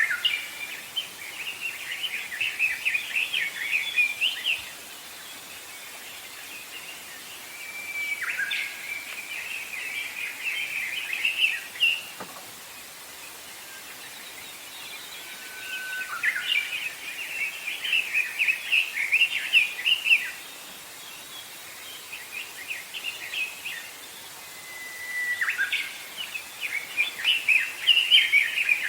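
A songbird singing the same song over and over, about every seven or eight seconds. Each song opens with a short steady whistled note, then breaks into a rapid jumbled twitter lasting a few seconds, over a faint steady background hiss.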